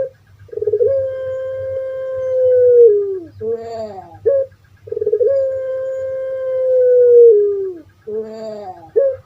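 Puter pelung (domestic Barbary dove, Streptopelia risoria) cooing. Each call is a short, bending, rising note and then a long drawn-out coo of about two and a half seconds that drops in pitch at the end. This comes twice, and a third coo starts near the end.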